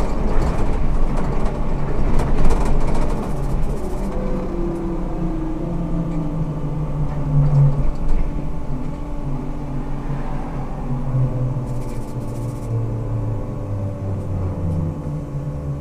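Ikarus 280T trolleybus with GVM traction equipment under way: a continuous low rumble and rattle of the bus, with the electric drive's whine tones shifting in pitch. Near the end a whine glides downward as the bus slows.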